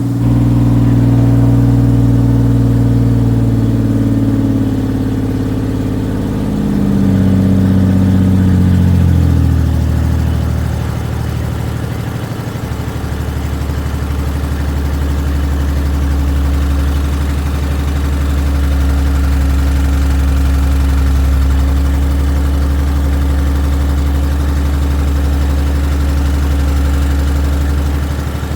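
2001 Oldsmobile Bravada's 4.3-litre V6 running with no oil, no coolant and no exhaust system, on its way to seizing. It runs fast at first, its revs fall from about six to ten seconds in, and then it settles to a steady low idle.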